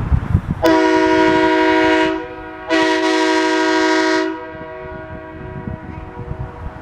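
A loud multi-note air horn sounds two long blasts, each about a second and a half, with a short break between them.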